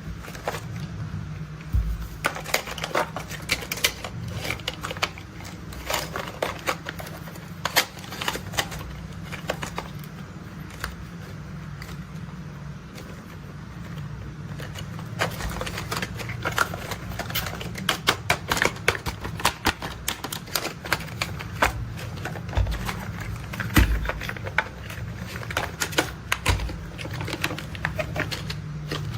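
Toy construction vehicles being handled and played with: many quick, irregular clicks and rattles of their parts throughout, over a low steady rumble.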